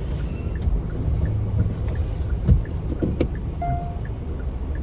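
Car running slowly while parking, heard from inside the cabin as a steady low rumble, with a faint, evenly repeating beep about three times a second and a brief knock about three seconds in.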